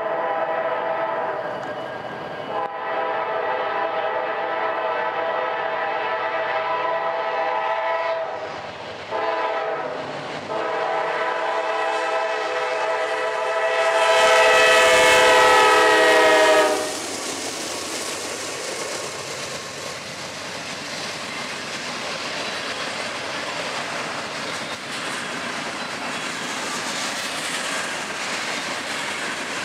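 Norfolk Southern diesel freight locomotives sounding their multi-chime air horn in long, long, short, long blasts, the grade-crossing signal. The last long blast is the loudest and cuts off as the locomotives pass, about 17 seconds in. After that the train's loaded covered hopper cars roll by with a steady rumble and wheel clatter.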